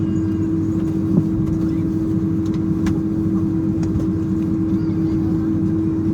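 Boeing 767-300ER cabin on the ground after landing: a steady mechanical hum with one constant drone tone over a low rumble, and a faint click about a second in.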